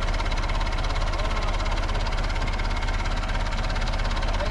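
Backhoe's diesel engine running steadily at a constant speed, with a fast even pulse.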